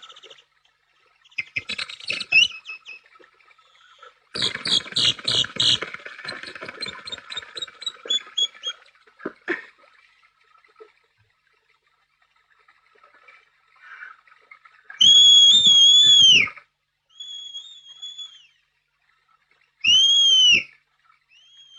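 Two long, shrill whistle blasts in the second half, each dipping in pitch at the end, with a short fainter whistle between them. Before them comes a spell of quick, chattering animal calls.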